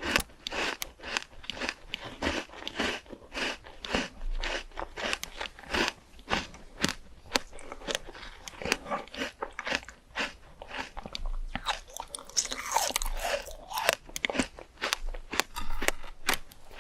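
A person biting and chewing crunchy fresh fruit close to the microphone: a steady run of wet crunches, a few each second, with a short drawn-out slurp-like sound about three quarters of the way through.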